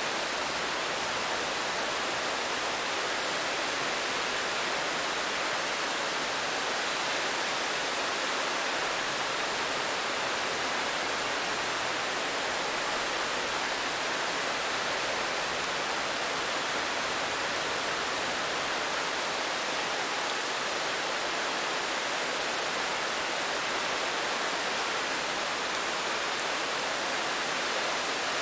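Steady rain falling, an even hiss with no separate drops or pauses standing out.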